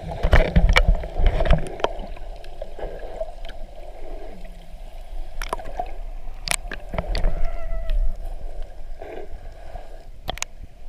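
Sea water sloshing and splashing close to the microphone, with heavy low rumble in the first second and a half.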